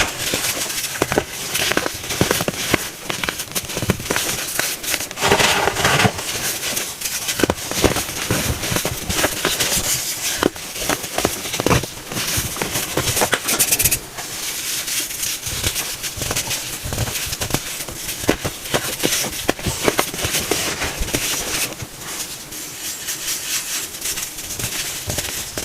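Pressed baking soda cones being crushed: dense, continuous crackling and crunching, with a louder crunch about five seconds in.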